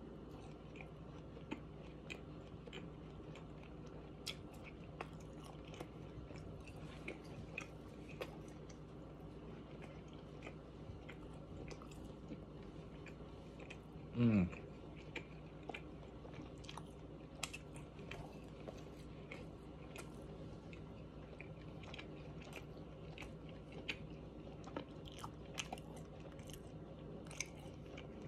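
Close-up mouth sounds of a person chewing udon noodles and steak: many small wet clicks and smacks, over a steady low hum. About halfway through, a short, loud sound that falls quickly in pitch.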